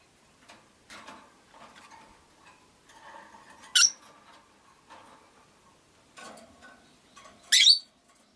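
Rosy-faced lovebirds (Agapornis roseicollis): soft chattering and small clicks, broken by two short, sharp, high chirps about four seconds apart.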